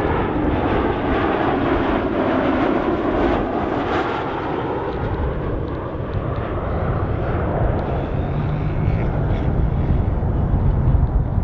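Embraer 195 jet airliner's turbofan engines on landing, a steady, loud jet roar.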